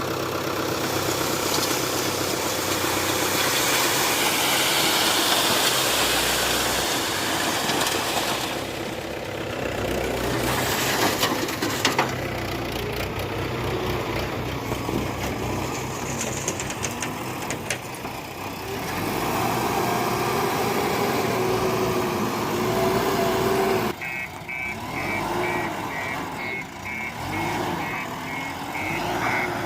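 Heavy diesel engines of a backhoe loader and tractor running, revving up and down under working load, with a few sharp clacks about ten seconds in. After an abrupt change about three-quarters of the way through, a reversing alarm beeps rapidly and steadily.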